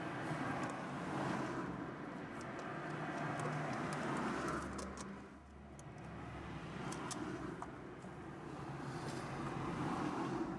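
Road traffic: several cars passing by one after another, their tyre and engine noise swelling and fading.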